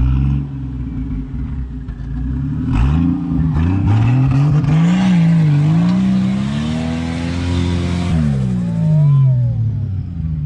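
Off-road 4x4's engine revving hard under load on sand: its pitch climbs about three seconds in, wavers, rises again, then drops away about eight seconds in as the throttle comes off. A rushing noise runs alongside the revving.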